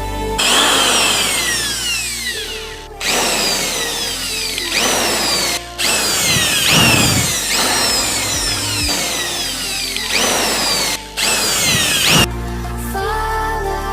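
Electric power tool running in several bursts, with whines that fall in pitch as the motor slows.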